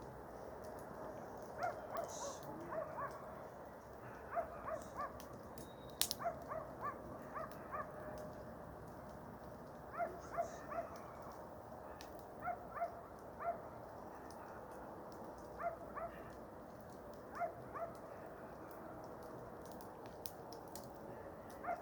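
An animal's short, rising cries, repeated in small groups, over a steady low hiss, with a sharp crack about six seconds in.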